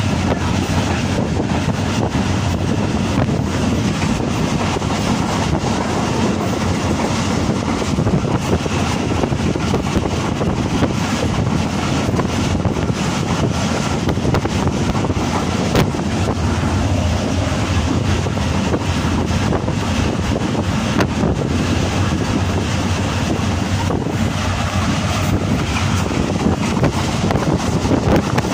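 Moving passenger train heard from inside the coach: a steady, loud rumble of wheels on the rails with continual rattling and clatter.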